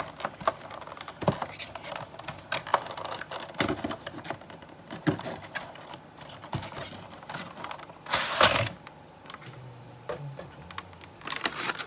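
Cardboard box and plastic packaging of a Funko Pop vinyl figure handled as the figure is taken out: a run of light clicks and taps, with a louder rustle of about half a second some eight seconds in.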